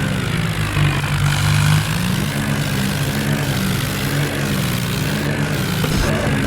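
Tractor engine running steadily under load, its pitch dipping and rising a few times through the middle.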